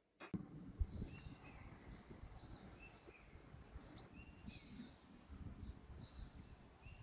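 Small birds chirping and calling, short high notes scattered throughout, over a low uneven background rumble.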